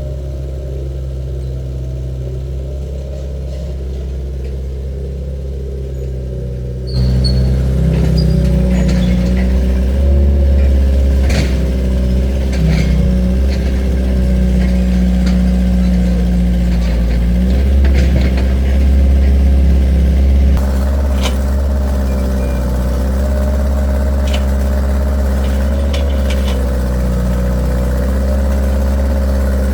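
Excavator's diesel engine running steadily, then stepping up to a louder, higher throttle about seven seconds in, with scattered clanks and knocks. It eases back slightly about twenty seconds in.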